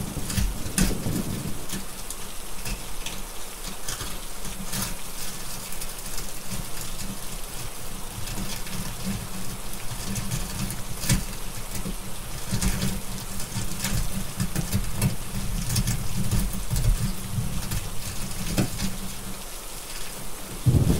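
Steady rain mixed with the sharp pops and crackles of a wood fire, over a low rumble.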